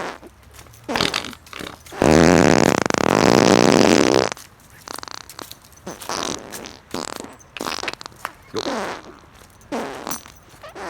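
Fart sounds: a loud, raspy blast about two seconds long, starting about two seconds in, then several shorter ones that drop in pitch near the end.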